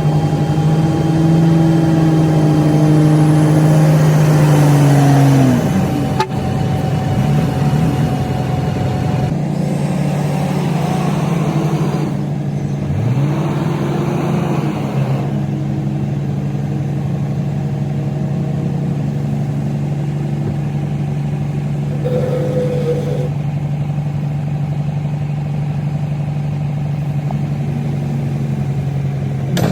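Komatsu D58P bulldozer's diesel engine running, its pitch sagging about a fifth of the way in and dipping briefly again near the middle, then holding a steady drone for the rest.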